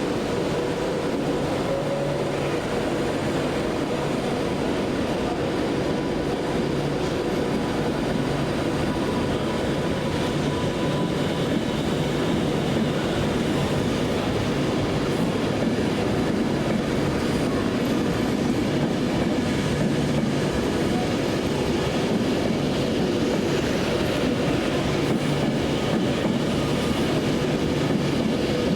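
A train moving along the station platform: a steady, continuous noise of wheels on rails, with faint thin tones that may be wheel squeal.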